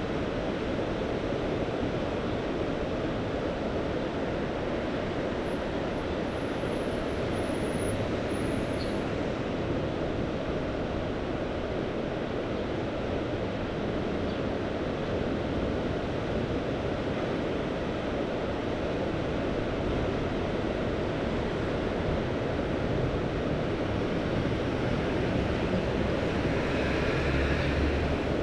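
Mediterranean Sea surf: a steady rushing wash of waves, swelling a little near the end.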